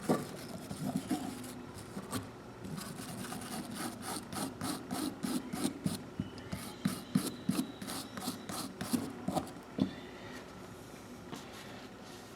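Small brass wire brush scrubbing a pair of old pliers in quick back-and-forth strokes, about three a second, easing off near the end.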